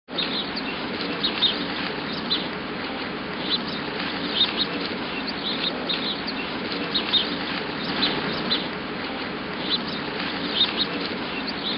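Outdoor ambience: small birds chirping, short high calls every second or so, over a steady rushing background noise.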